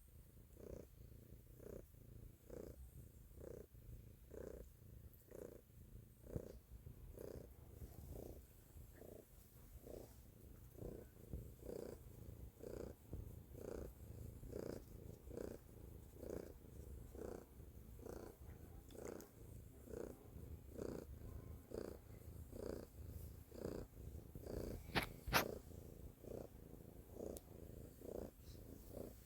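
Domestic cat purring steadily, the rumble swelling and easing in an even rhythm of roughly one and a half pulses a second as she breathes in and out. A brief sharp click near the end.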